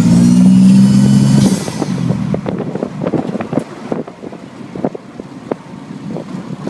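Twin-turbo Toyota 2JZ inline-six pulling hard under boost with a faint rising turbo whistle. About a second and a half in the throttle lifts and the blow-off valve vents with a short whoosh. The engine then drops to a quiet coast under irregular crackling wind buffeting.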